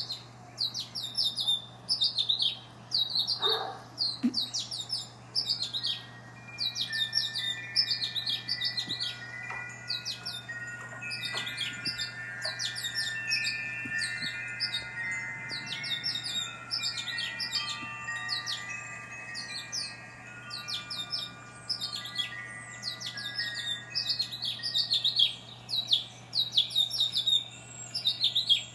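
Birds chirping: short clusters of rapid, high, quickly falling chirps, repeating about once a second.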